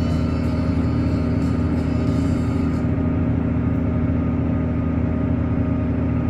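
Case 385 tractor's turbo diesel engine running steadily, a constant low drone with no change in speed.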